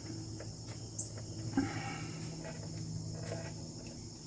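Crickets chirping steadily over a low hum, with a couple of faint clicks and knocks about one and one and a half seconds in, as the wires are handled.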